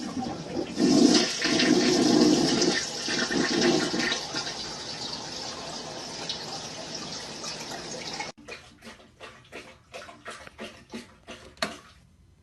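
A toilet flushing: loud rushing, gurgling water that slowly tapers off, then cuts off abruptly. It is followed by a few seconds of irregular light clicks or taps.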